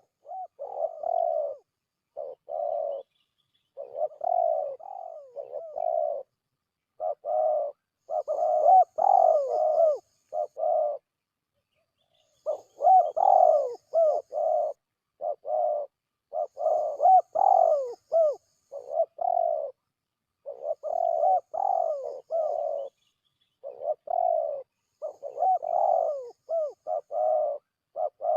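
Spotted dove (tekukur) cooing in repeated phrases, each a second or two long with short pauses between. It is a lure-call recording played to draw doves in.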